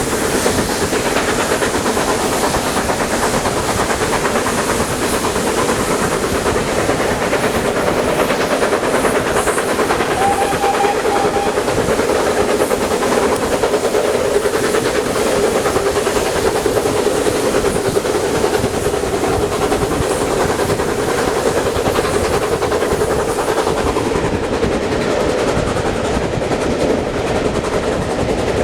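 Steam-hauled heritage train running steadily on the rails, with continuous wheel-and-track clatter and hiss.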